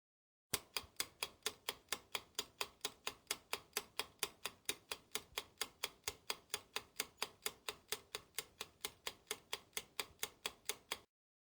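Ticking clock sound effect, a steady run of sharp ticks at about three a second that starts suddenly and cuts off abruptly near the end, the kind of countdown tick used while a quiz question waits for an answer.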